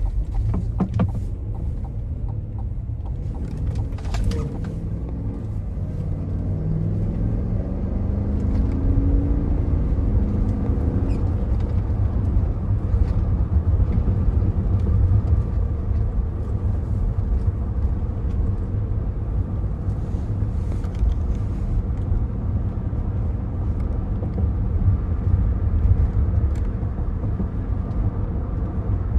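2024 Cadillac Escalade ESV driving, its 6.2-litre V8 and the road giving a steady low rumble. The engine note rises as the SUV accelerates between about seven and eleven seconds in, then settles into a steady cruise.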